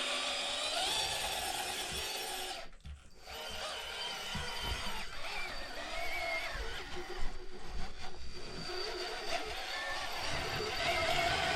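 Electric motor and geared drivetrain of an RC rock crawler whining as it tries to climb a 60-degree incline, the pitch rising and falling with the throttle. The whine stops briefly about three seconds in, then resumes.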